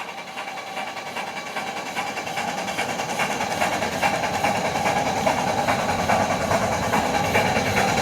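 Train on the narrow-gauge line running on the track, with a steady whine that grows slowly louder.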